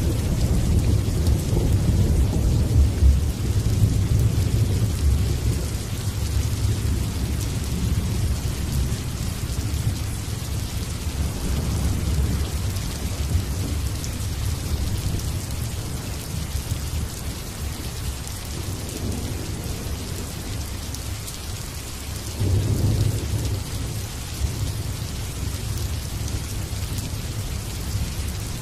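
Steady rain hissing, with thunder rumbling low beneath it. A long rolling rumble fades over the first several seconds, and a second, shorter rumble swells a little past two-thirds of the way through.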